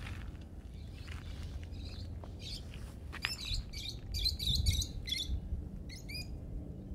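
Small birds chirping in short, high calls and trills, thickest a little past the middle, over a steady low rumble.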